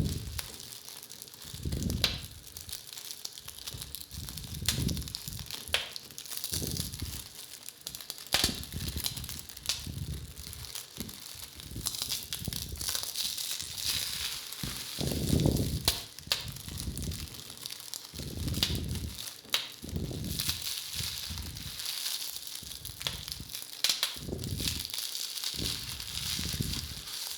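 Foley imitation of a crackling fire: cellophane crinkled and bubble wrap popped in a steady stream of sharp crackles and snaps. Low rushing swells from stove gas and breath rise and fade every second or two beneath it.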